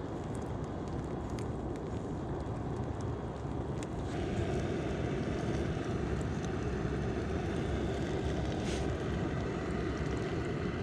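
Steady rushing roar of a gas burner torch used to light a campfire, growing a little louder about four seconds in.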